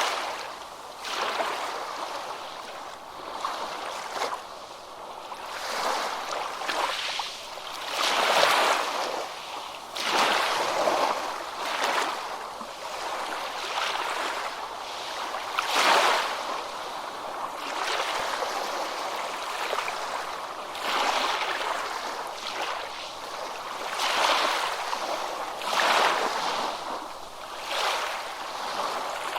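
Ocean waves breaking and washing up a beach, one surge after another every few seconds, with the biggest breakers coming three times, roughly eight seconds apart.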